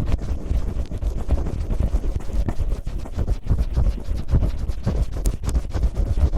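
Cellophane rubbed and crinkled roughly against a microphone in quick, irregular strokes, a scratchy rumble made to imitate ear cleaning.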